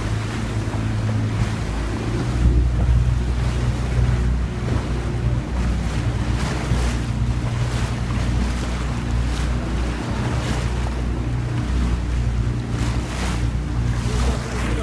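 Boat engine running with a steady low drone, with water rushing past the hull and wind buffeting the microphone.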